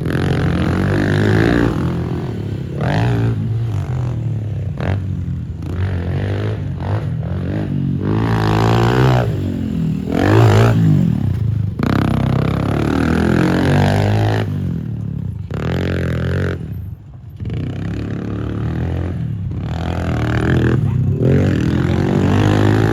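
110cc pit bike engine revving up and down as it is ridden around a dirt track, its note climbing and falling with the throttle and dropping off sharply a few times in the middle.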